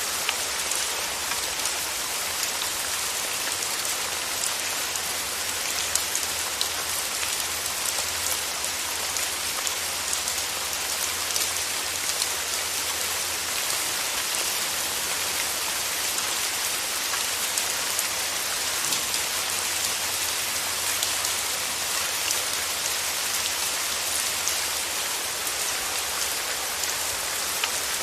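Steady rain: a dense, even hiss of falling water with fine ticks of individual drops.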